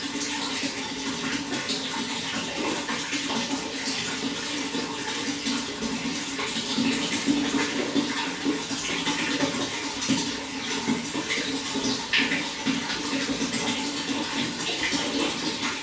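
Water running and splashing steadily, with many small splashes.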